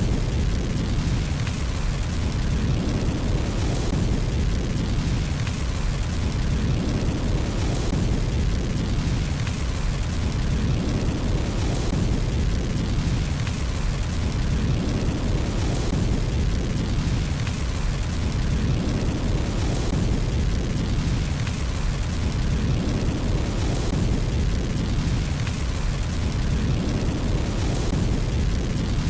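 Fireplace fire sound: a steady low rumble with brief surges of hiss and crackle, the same pattern repeating about every four seconds like a short loop.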